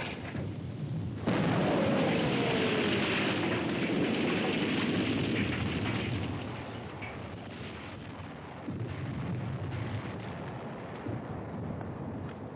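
Artillery shellfire on a battlefield: a sudden loud blast about a second in, then a dense rumbling roar with a tone falling in pitch through it, easing after a few seconds into lower rumble with scattered sharp bangs.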